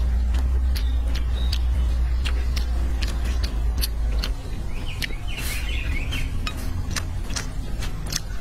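Close-miked eating: wet mouth clicks and chewing of a mouthful of fried rice, with chopsticks taking more from the bowl. Under it runs a low rumble that stops about four seconds in, and a bird chirps briefly a second or so later.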